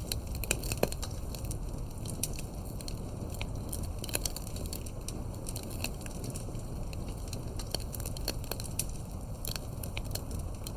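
Firewood burning in a campfire: irregular sharp crackles and pops over a steady low rush of flame.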